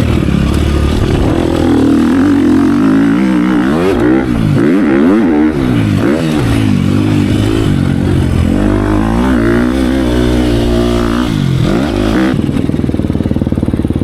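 Dirt bike engine being ridden hard, revving up and falling back again and again as the rider works the throttle and gears.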